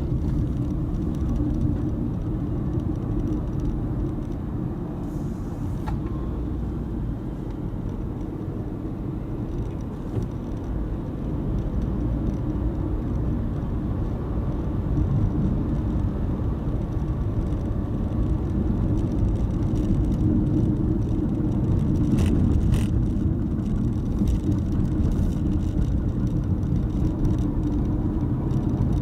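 Car cabin noise while driving: a steady low rumble of engine and tyres on the road, growing a little louder after the middle. A couple of short ticks come about three quarters of the way through.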